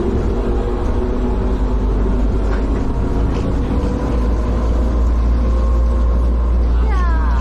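Steady low rumble of a moving vehicle, heard from on board, with a brief falling whine near the end.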